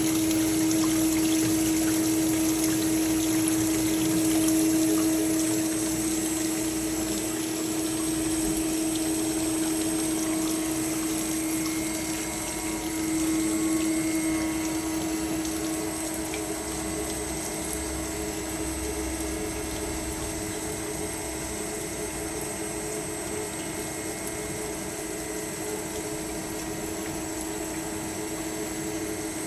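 Kasto Twin A4 automatic horizontal band saw running through its cycle, with its conveyor in operation. It gives a steady machine hum with one constant tone over an even hiss, and grows a little quieter about halfway through.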